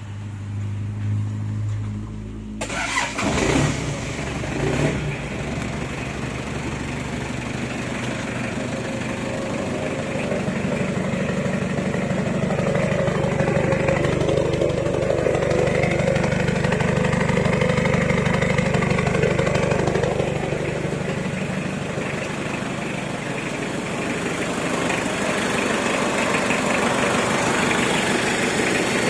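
Toyota 2C four-cylinder turbo diesel engine started after glow-plug preheating: it cranks and catches about two and a half seconds in, then runs. It gets louder between about 10 and 20 seconds in.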